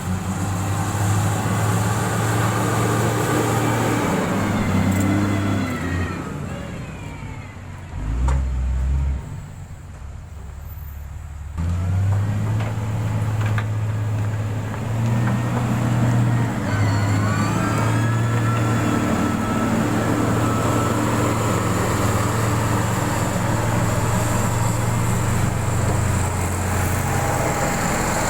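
Diesel engine of heavy road-building equipment running steadily under load, with a gliding whine now and then. The engine sound drops away for a few seconds in the middle, with a brief deep rumble, then comes back at full level.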